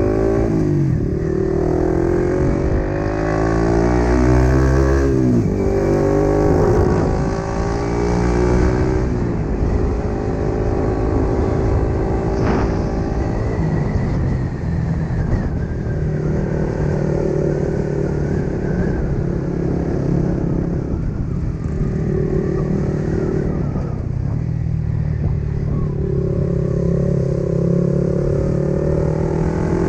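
Yamaha MT15's 155 cc single-cylinder engine under way on the road. In the first few seconds it revs up repeatedly, its pitch climbing and dropping back as it shifts up through the gears, then it runs at a steadier pitch with a few brief dips as the throttle is eased.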